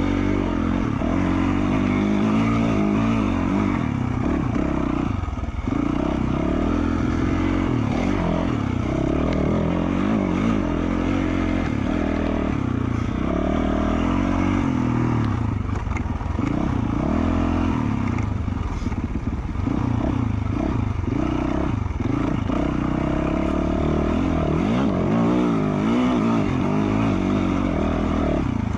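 2020 Yamaha YZ450F's single-cylinder four-stroke engine, with an FMF Q4 slip-on exhaust, being ridden on trail, its revs repeatedly climbing and dropping with the throttle.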